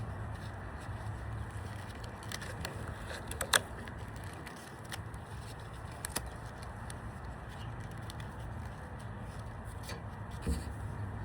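Steady outdoor background noise with a few sharp clicks from handling, the loudest about three and a half seconds in, another about six seconds in, and a soft thump near the end.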